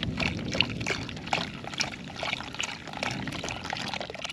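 Chicken broth being poured from a container into a pot of beer, a continuous splashing trickle of liquid.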